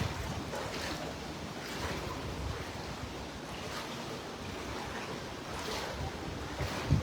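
Wind and hurricane floodwater washing over flooded docks: a steady rushing noise with faint swells, and wind rumbling on the microphone.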